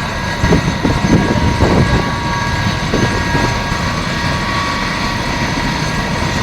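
Rescue helicopter running close by: a steady engine whine over a rough, uneven rotor rumble.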